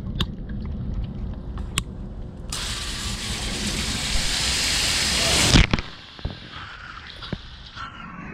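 Garden hose spray nozzle spraying water onto an outdoor air-conditioner unit: a loud, even hiss starts about two and a half seconds in and cuts off suddenly about three seconds later with a thump. A low rumble and a few sharp clicks run underneath.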